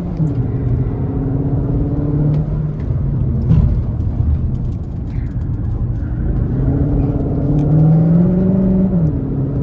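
Cupra Formentor e-Hybrid's 1.4-litre turbocharged four-cylinder petrol engine pulling hard, with tyre and road rumble. Its pitch drops just after the start, holds, then climbs steadily from about seven seconds in and drops sharply again near the end.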